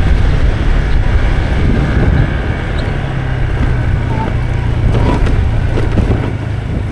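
Motorbike engine running steadily while riding, with heavy low wind rumble on the microphone.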